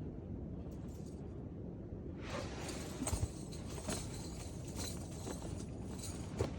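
Footsteps crunching and crackling on icy, crusted snow. The crunching starts about two seconds in, with a few sharper cracks among it.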